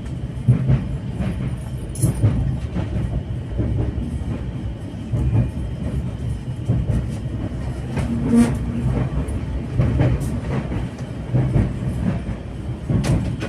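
Passenger train heard from inside the coach: a steady low rumble of the running gear, with irregular clacks and knocks as the wheels pass over the track.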